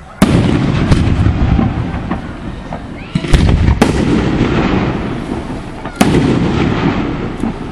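Aerial fireworks shells bursting: a loud bang about a quarter of a second in, two more close together a little past the middle, and one near the end. Each bang is followed by a rumbling echo and crackle that fades away.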